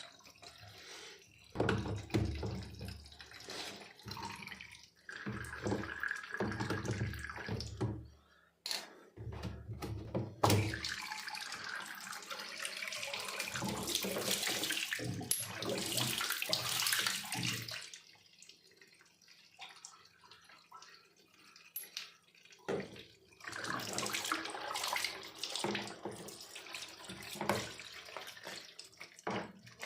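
Water running and splashing in a washing machine, coming and going in spells with a quieter lull past the middle, and a few knocks.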